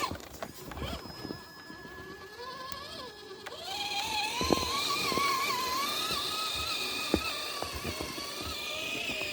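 Electric motor and gear drivetrain of an RC rock crawler whining. The whine rises in pitch as the truck speeds up over the first few seconds, grows louder about three and a half seconds in, then wavers with the throttle, with a few sharp clicks.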